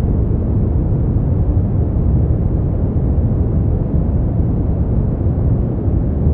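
Steady brown noise: an even, deep rumbling hiss with most of its energy in the bass, no tones or events, and nothing above about 4 kHz.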